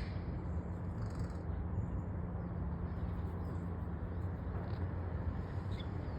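Steady low outdoor background rumble, with a few faint, high bird chirps about a second in.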